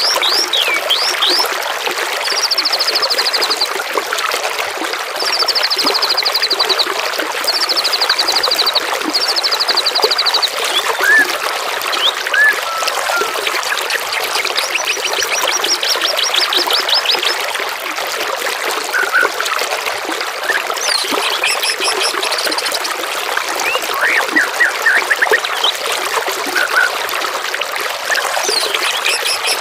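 Steady trickling of running water under songbird calls: a run of rapid, high trills about a second each, with one longer trill in the middle, and scattered short chirps and whistles.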